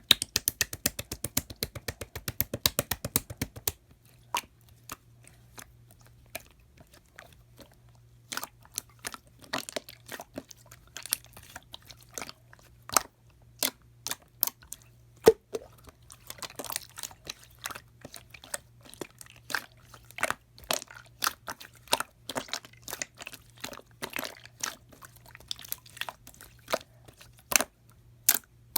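Slime being pressed and squished by hand, giving crisp clicking and popping sounds: a fast run of clicks for the first few seconds, then scattered crackly pops.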